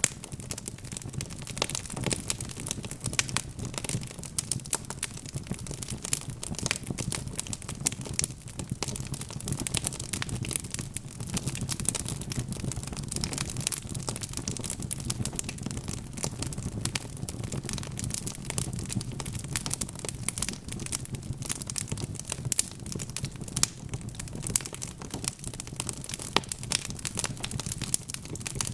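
Log fire burning in a fireplace, crackling with many small irregular pops over a low steady rumble.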